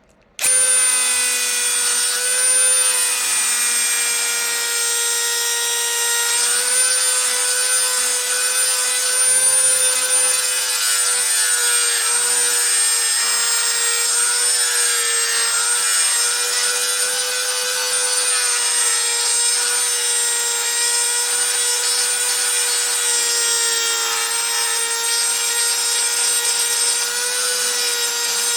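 Electric power tool switched on, its motor running steadily at a high whine while an abrasive rubs against the metal of a brake caliper being cleaned. It starts suddenly about half a second in.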